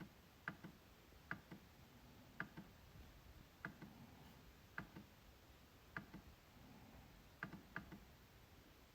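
MacBook trackpad being clicked at an uneven pace of about one click a second, each a sharp press followed closely by a lighter release click. Near the end two clicks come in quick succession.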